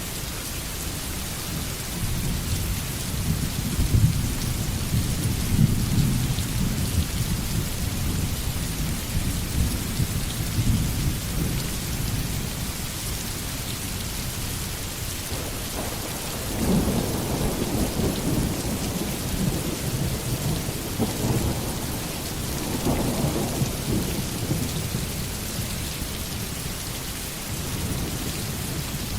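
Steady heavy rain hissing, with low rolls of thunder rumbling through it, one roll in the first half and another starting about halfway through.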